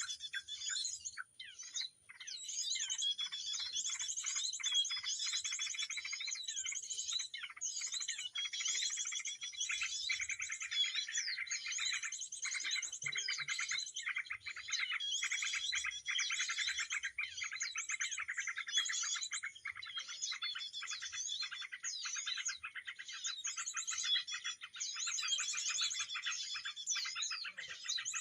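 Recorded bird song played back as a trapping lure: dense, rapid, high chirps and trills that go on almost without a break, with a couple of short gaps near the start. It is the call of the prenjak kepala merah (red-headed prenjak) used to draw the bird to the snare.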